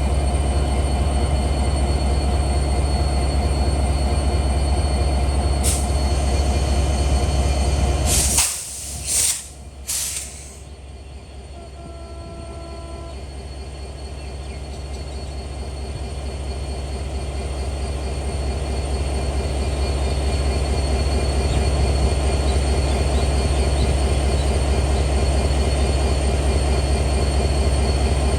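Intercity passenger train passing at speed: a steady, heavy rumble of wheels and coaches on the rails. About eight seconds in come three loud short bursts of noise, then the rumble drops sharply and slowly builds back up to full level.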